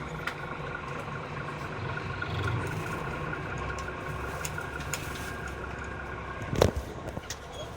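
Bus engine idling with a steady low hum, and a single sharp knock about six and a half seconds in.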